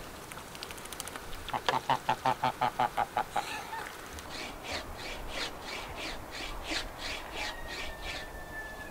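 Farmyard birds calling in rapid runs: first a fast string of about a dozen lower calls, then a higher, lighter string of calls at about four a second.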